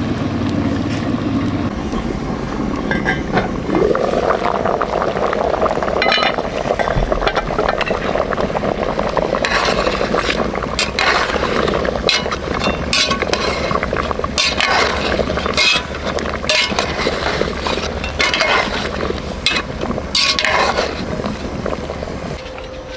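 Repeated sharp clinks of hard objects over a steady background noise, with a brief rising tone about four seconds in.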